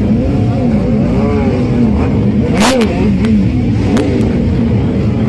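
Several motorcycle and car engines revving together, their pitches rising and falling over one another. A sharp crack comes about two and a half seconds in, followed by a few smaller pops.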